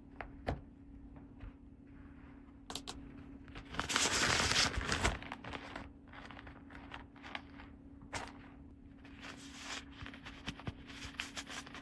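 Toy packaging and small plastic toy pieces being handled: scattered light clicks and rustling, with a louder stretch of crinkling or tearing about a second long near the middle.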